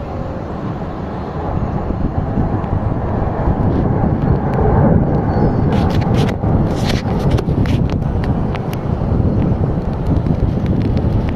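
Fighter jet roaring overhead during a low pass, swelling to its loudest about five seconds in, with wind buffeting the microphone and a few crackles in the middle.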